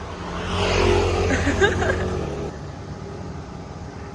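Motor scooter engine running, rising louder for about two seconds near the start and then settling back to a steady hum.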